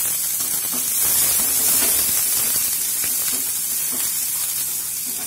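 Chopped green chillies, garlic and ginger sizzling in hot oil in a frying pan, a steady sizzle with a few small crackles.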